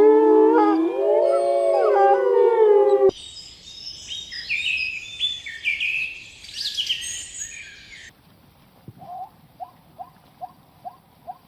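A dog howling, its pitch gliding and wavering with more than one voice overlapping, cut off abruptly about three seconds in. Then come a few seconds of quieter high chirping calls, and finally a faint short squeak repeating two or three times a second.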